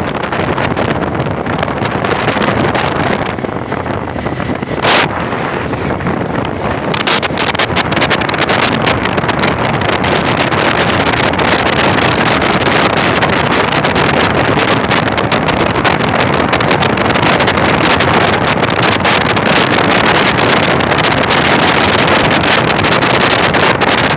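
Loud wind rush on the microphone of a motorcycle riding at speed, with the engine buried in the noise. A brief, louder burst comes about five seconds in, and the noise grows harsher from about seven seconds on.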